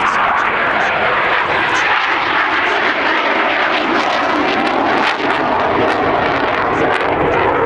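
Jet aircraft engines running loud and steady.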